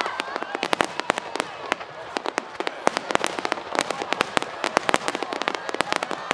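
Aerial fireworks crackling: a dense, irregular barrage of sharp cracks and pops, several a second, over a steady background hiss.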